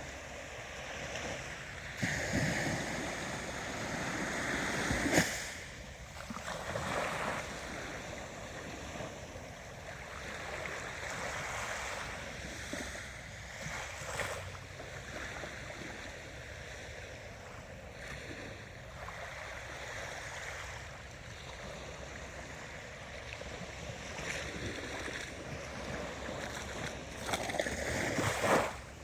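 Ocean waves washing ashore. The surf swells louder over the first few seconds and falls away sharply about five seconds in, then keeps up a steadier wash until another wave swells and drops off near the end.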